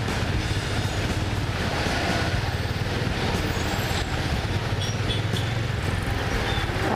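Yamaha Fazer 250's single-cylinder engine running steadily under way, with a steady haze of road and wind noise.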